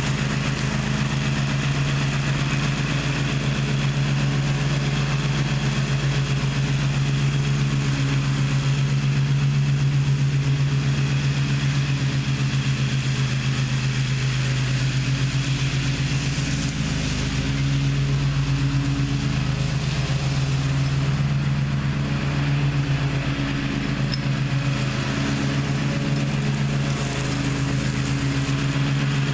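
Gravely ZTX 42 zero-turn mower's engine running steadily for the whole stretch, a low even drone with only slight wavers in pitch.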